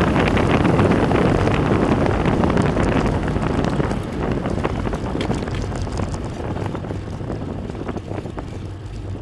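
Wind buffeting the microphone during a fast downhill run, a loud rushing roar that eases off after about four seconds, with scattered faint ticks.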